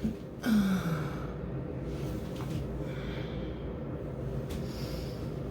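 A woman's short wordless vocal sound, falling in pitch, about half a second in, then a steady low room hum.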